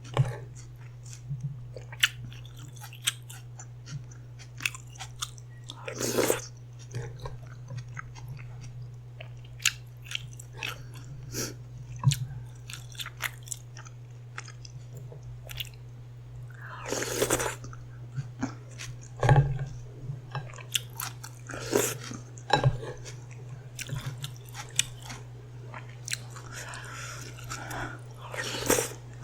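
Close-miked eating: steady chewing with many small sharp bites and crunches, and a few longer, louder mouth sounds spread through. A steady low electrical hum runs underneath.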